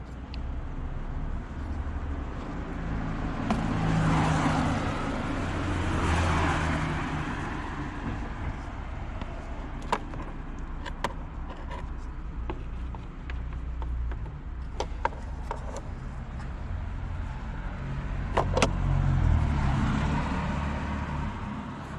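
Road traffic passing, a low engine-and-tyre rumble that swells and fades a few times, with a handful of sharp clicks and taps from parts being handled.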